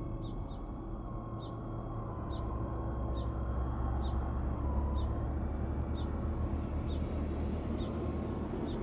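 Road traffic rumbling, swelling as a vehicle passes in the middle. Short high chirps repeat about once or twice a second over it.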